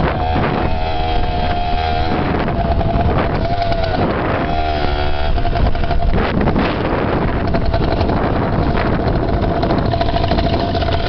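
Dirt bike engine running under way, its pitch rising and falling with the throttle and then holding steadier.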